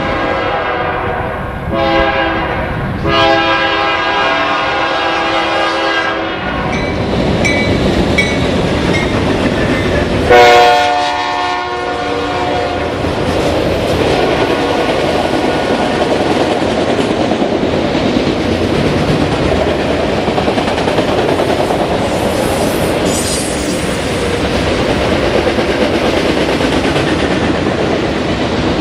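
Locomotive air horn sounding three blasts, the second the longest, as a train rolls past; then the steady rumble and clickety-clack of the train's wheels on the rails.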